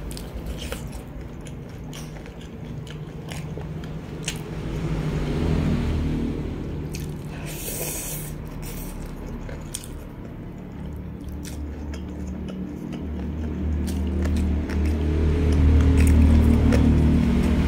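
Close-miked chewing and biting of crispy fried chicken and sweet potato fries, with wet mouth sounds and scattered crisp clicks. A brief, louder crunchy burst comes about eight seconds in, and the low chewing sound swells near the end.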